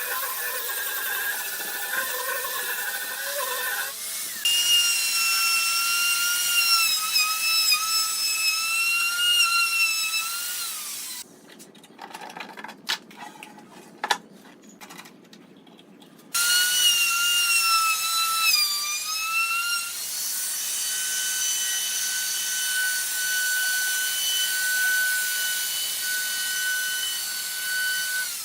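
Electric power drill running in several runs: a high whine that wavers and dips in pitch under load. It stops for about five seconds in the middle, where there are a few clicks, then runs again and holds steady near the end.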